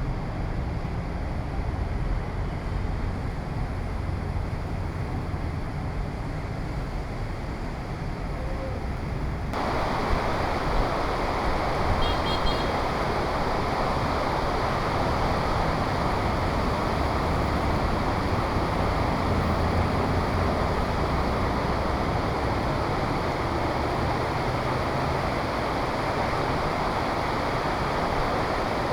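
Heavy rain hissing down, with wind rumbling on the microphone. The rain hiss gets suddenly louder about ten seconds in and stays that way.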